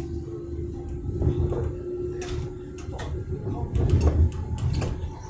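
Interior of a moving commuter train carriage: a low rumble from the running train with irregular knocks and rattles. A steady hum stops a little past halfway, and the rumble is loudest about four seconds in.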